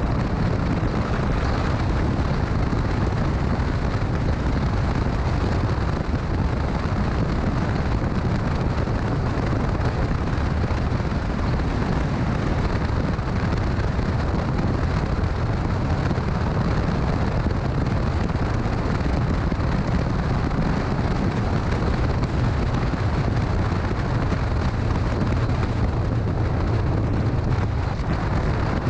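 Motorcycle ride at a steady pace: engine noise under a heavy, constant rumble of wind buffeting the microphone.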